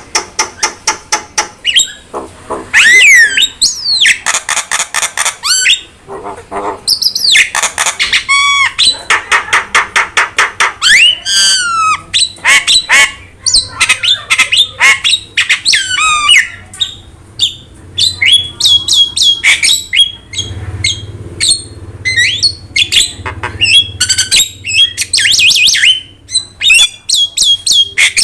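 A jalak (myna or starling) singing a long, varied song of loud squawks, gliding whistles and fast rattling click runs with short pauses, a call used to provoke and tutor caged jalak into singing.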